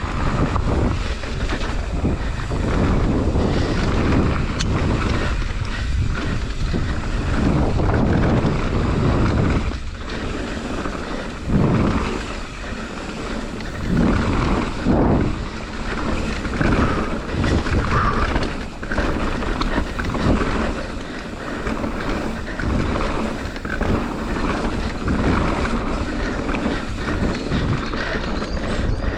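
Wind buffeting the microphone of a camera on a mountain bike descending a dirt trail. Under it are the rumble of the tyres and the clatter of the bike over bumps, with sharp knocks here and there.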